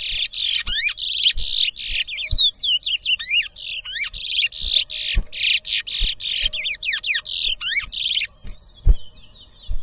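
Caged towa-towa (chestnut-bellied seed finch) singing a long, loud song of rapid trills and whistled slurs, which stops about eight seconds in and gives way to fainter warbling. It is a competition song, counted toward the bird's tally. A few low thumps are heard under the song.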